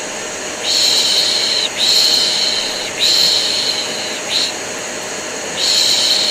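An electric vacuum cleaner runs steadily under a rhythmic human "shhh" shushing. The shushes come one after another, about five in all, each lasting around a second. It is the soothing shush used to settle a baby.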